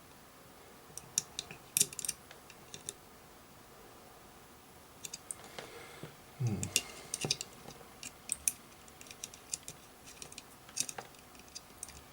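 Irregular light clicks and taps of multimeter probes and a circuit board being handled on a workbench during a diode test, with a soft low thump about six and a half seconds in.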